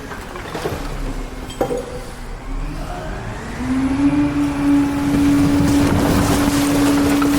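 Truck engine running, its revs climbing a little after halfway and then held steady with a steady hum, plus a single click early on.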